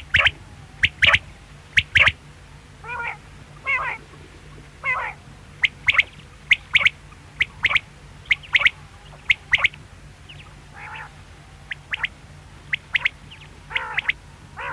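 Quail calling: many short, sharp notes, often in quick pairs, mixed with a few longer, rougher wavering calls, over a steady low hum.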